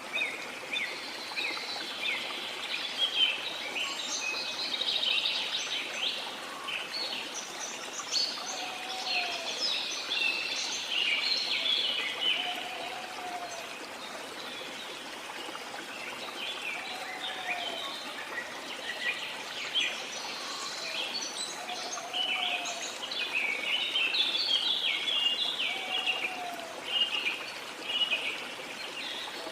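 A dense chorus of rainforest birds chirping and trilling over the steady rush of falling water. A lower, short swooping call repeats every few seconds.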